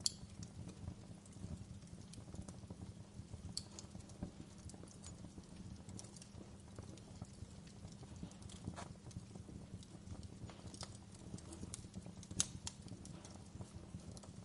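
Wood fire crackling: irregular sharp pops and snaps over a low steady rumble, with a louder pop right at the start and another about twelve seconds in.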